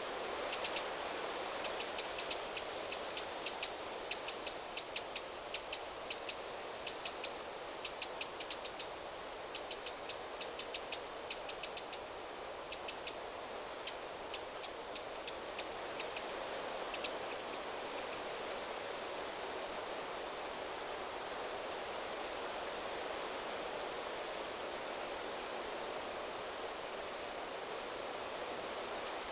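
A bird giving rapid short, high chirps over steady wind rustling through the trees; the chirping is dense for the first half and dies away after about seventeen seconds, leaving the wind.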